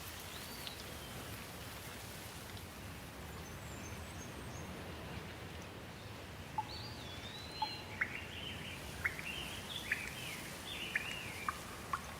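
Steady rain falling, with a bird chirping and whistling repeatedly over it in the second half: short sharp notes and swooping calls, several a second.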